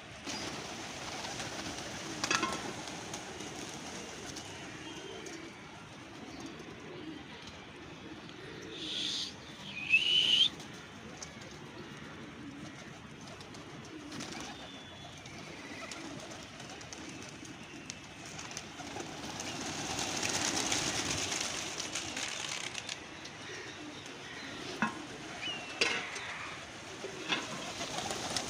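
Pigeons cooing continuously, with a brief, loud, higher-pitched sound rising in pitch about ten seconds in and a few short clicks.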